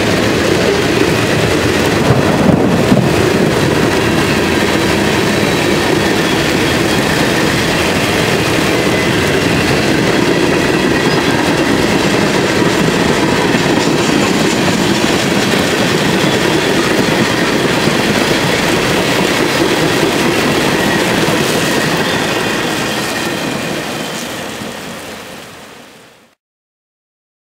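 CSX freight cars rolling past at speed in heavy rain, a steady rumble of wheels on rail with some clickety-clack over the hiss of the downpour. The sound fades out near the end.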